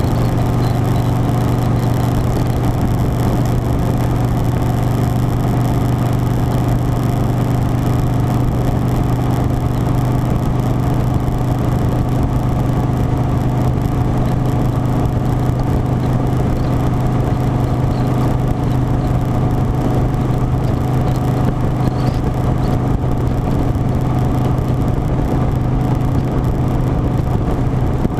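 Harley-Davidson Softail Standard V-twin engine running steadily at a constant speed, with an even, unchanging note and road and wind noise over it.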